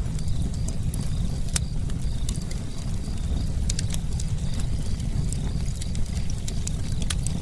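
Campfire burning: a steady low rumble of the flames with irregular sharp crackles and pops from the wood.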